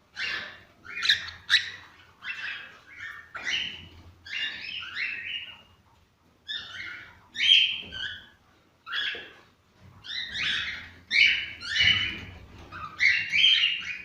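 Cockatiels chirping and warbling in a quick run of short calls, with a brief pause about six seconds in.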